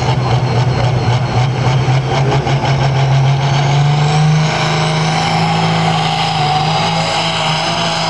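Pulling tractor's engine running hard at high revs under load while dragging the sled, a loud steady drone whose pitch rises a little about halfway through and then holds.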